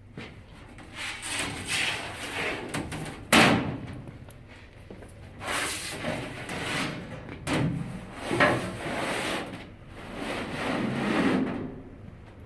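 Wood being worked by hand: a series of rough scraping or rubbing strokes, each about a second long, with one sharp knock about three and a half seconds in.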